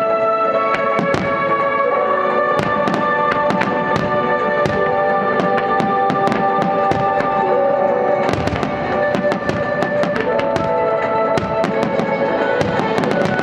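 Aerial firework shells bursting with many sharp bangs, thickest in a quick cluster about eight seconds in, over music with long held chords.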